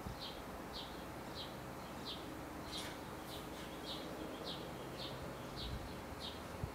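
A bird calling a short, high chip note over and over at a steady pace, about one and a half times a second, over a faint low hum.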